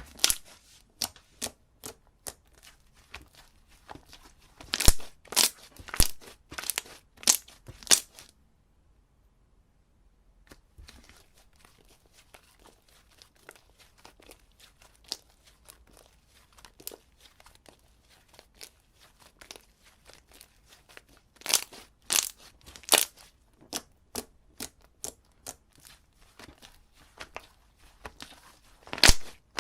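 Slime being squished and stretched by hand, a run of sharp wet clicks and crackling pops in clusters, with a complete dropout of sound for about two seconds a third of the way in.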